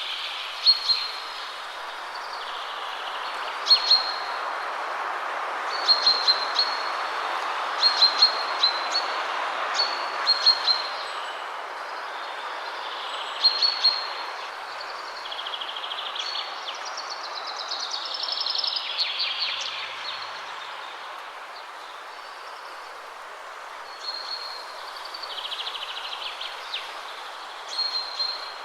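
Steady wind rushing through trees, with small birds chirping over it in short, sharp high calls every second or two and one longer falling phrase a little past halfway.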